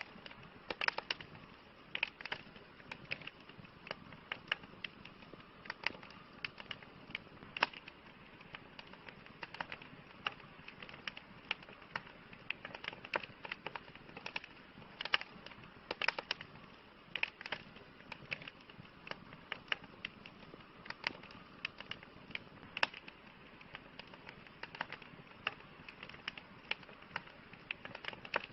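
Campfire burning: wood crackling and popping in irregular sharp clicks, several a second, over a soft steady hiss of the flames.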